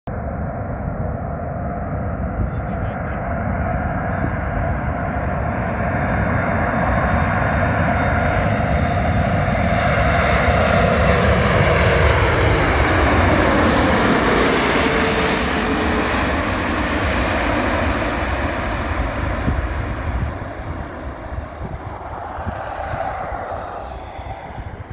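Boeing 747's four jet engines as the airliner comes in to land and passes by. The sound builds to its loudest about halfway through, its whine sliding down in pitch as the plane goes past, then fades.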